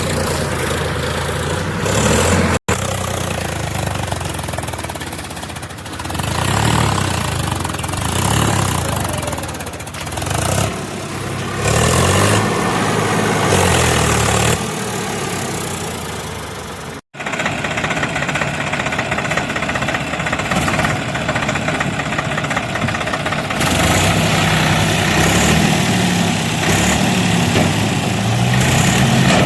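Tractor diesel engine running and revving, its pitch rising and falling again and again. The sound breaks off suddenly twice.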